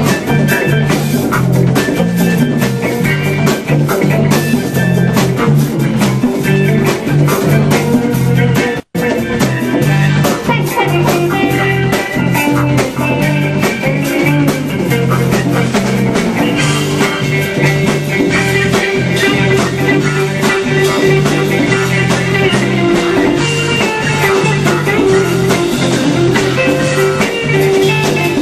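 Live band playing an instrumental jam with guitar to the fore. The sound cuts out for an instant about nine seconds in.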